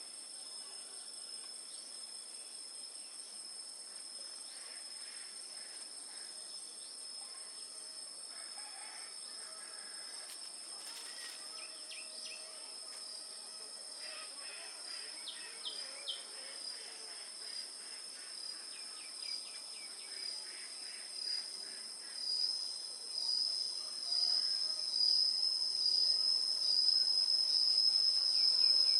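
Steady high-pitched insect chorus of crickets or cicadas, swelling and pulsing louder from about two-thirds of the way through. A few faint short chirps sound in the middle.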